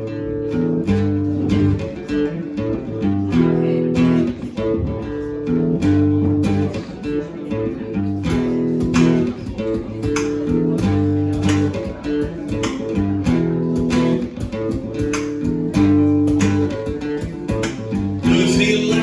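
Instrumental rock band intro: guitar chords over a steady beat, with no singing yet.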